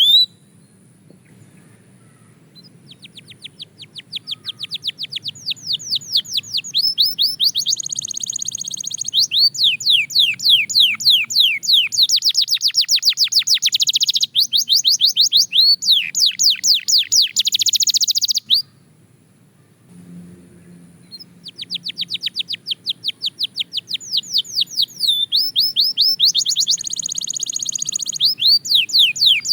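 Canary singing in two long phrases of rapid, repeated trilled notes, many sweeping down in pitch, with quick changes from one trill to the next. The first phrase starts a few seconds in and runs about fifteen seconds; after a pause of about two seconds the second phrase begins.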